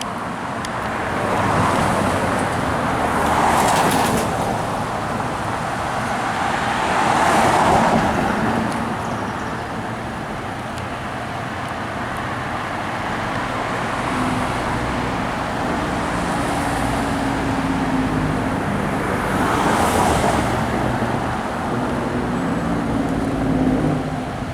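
Road traffic on a town street: several vehicles pass one after another, each a rising and fading rush of tyre noise. From about halfway through, a steady low engine hum runs underneath.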